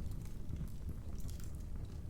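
Wood fire crackling: a low steady rumble with scattered sharp pops and snaps, a few of them close together about two-thirds of the way through.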